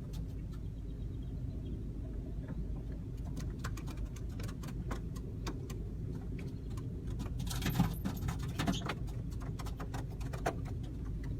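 Many birds' feet and beaks tapping and clicking on a car's body, heard from inside the car over the low rumble of the car, the taps growing thicker a few seconds in, with a louder rush of noise about two-thirds through.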